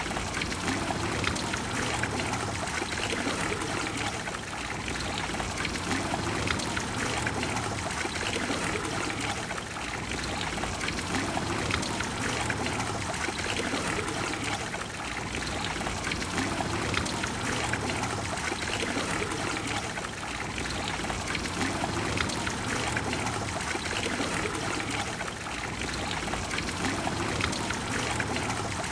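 Water of the Trevi Fountain flowing and splashing, a steady, unbroken rush.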